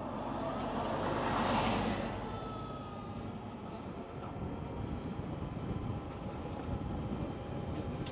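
Energica Experia electric motorcycle riding off: wind and road noise, a swell about a second in, with the thin whine of the electric motor faintly above it.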